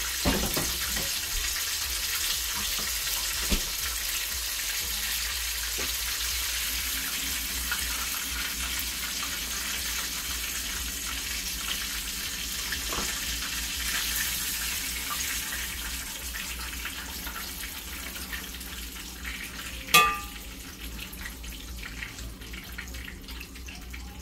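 Chicken frying in hot oil: a steady sizzle that eases off after a single ringing metal clank about 20 seconds in.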